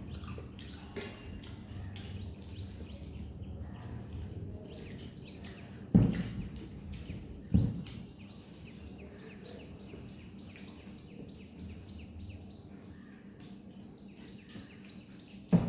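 A person eating a meal: faint chewing and small mouth and food clicks over a low steady hum. There are two louder knocks about six and seven and a half seconds in, and another near the end.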